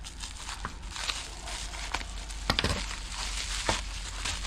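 Packaging of a carburetor kit being opened and handled: steady crinkling and rustling with a few sharper clicks, the loudest about two and a half seconds in.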